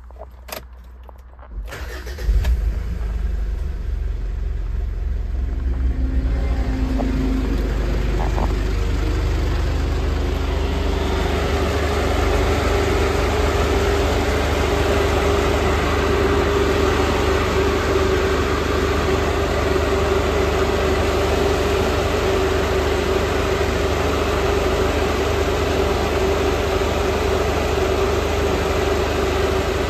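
A Mitsubishi Montero V80 DI-D diesel engine starts about two seconds in and settles into a steady idle. From about six seconds an electric radiator fan spins up: a rushing airflow with a steady drone that grows over several seconds and then holds steady.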